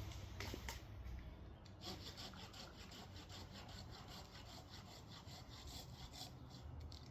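Hand saw cutting through wood with quick, even strokes, several a second, starting about two seconds in; faint.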